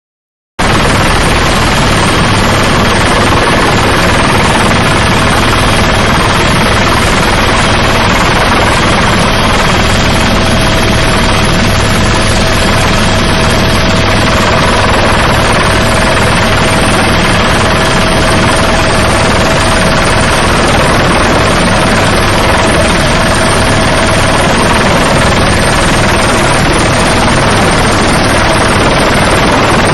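Mi-17 twin-turbine helicopter running loud and steady, rotor and engine noise with a steady whine. It cuts in suddenly about half a second in.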